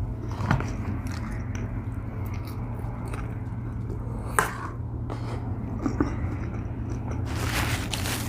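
Close-miked eating: chewing with a few sharp smacks, then dense crunching from about seven seconds in. A steady low hum from a running air conditioner sits underneath.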